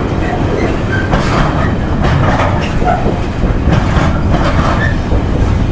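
Empty intermodal container wagons of a freight train rolling past, with a steady low rumble and a wheel clatter over the rail joints that repeats about once a second.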